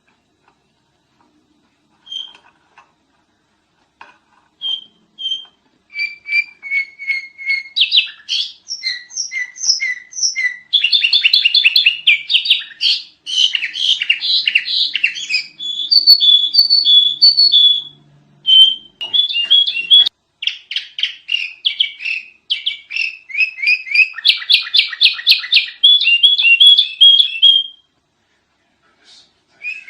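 Sooty-headed bulbul (kutilang) singing: a few scattered chirps, then from about six seconds in a loud, nearly unbroken stream of rapid chirps and bubbly trilled phrases, which breaks off briefly near the end and starts again.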